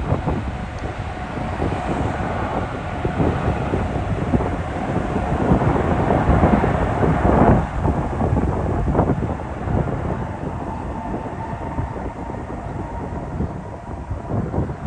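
Jet airliner engines rumbling as the aircraft passes, with a faint steady whine, and wind buffeting the microphone.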